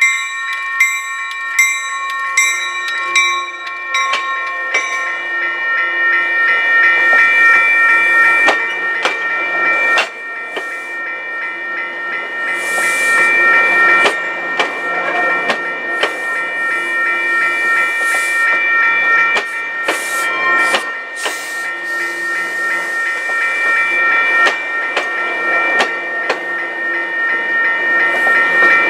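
Grade-crossing bells ringing about once a second over the first few seconds as an MBTA commuter train, cab car leading, rolls in. Its bi-level coaches then pass close by with a steady rumble, the wheels clicking sharply over the rails.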